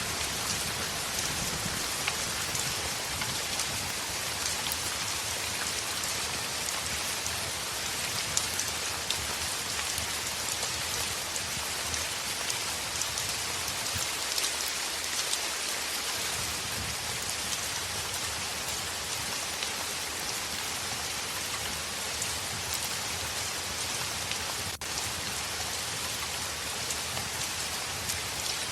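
Heavy rain falling steadily on a window: a dense, even hiss with scattered sharper ticks of individual drops.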